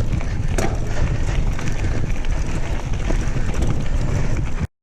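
Wind buffeting the microphone and rolling noise from a mountain bike on a dirt trail, with a few sharp clicks and rattles. The sound cuts off abruptly near the end.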